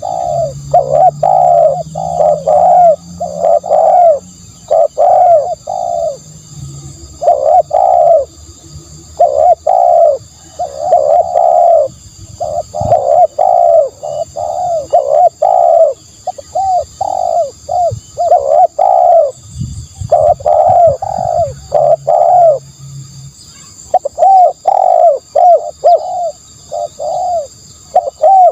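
Spotted dove cooing over and over, short coos in quick runs of several notes with brief pauses between the runs.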